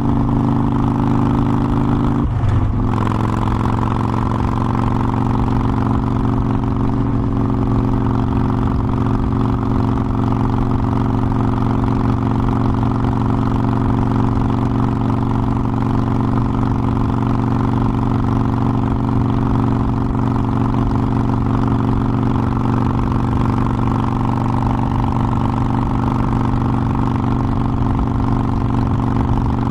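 Harley-Davidson Forty-Eight Sportster's air-cooled 1200 cc V-twin running while riding. The engine note changes abruptly about two and a half seconds in, then holds steady.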